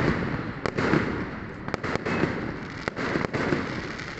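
Many fireworks going off at once: a dense, continuous rumble of distant bursts with sharp cracks and bangs scattered throughout.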